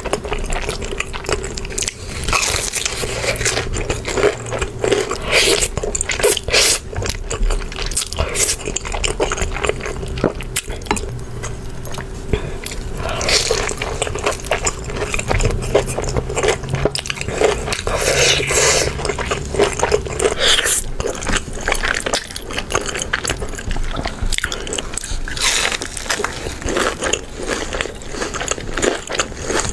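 Close-up eating sounds: bites, crunching and chewing, with some scraping, in a dense, irregular run of short clicks.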